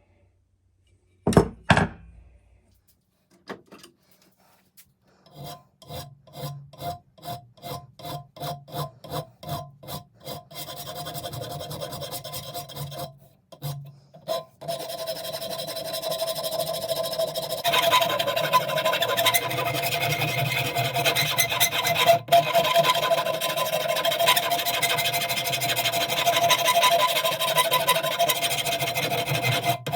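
Sandpaper being rubbed by hand on an old cobbler's hammer: a thump about a second and a half in, then back-and-forth strokes about two a second, then quicker, near-continuous rubbing that gets louder in the second half.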